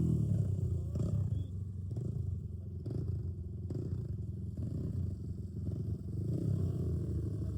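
Dirt bike engine idling with a low, uneven rumble, just after the revs have dropped.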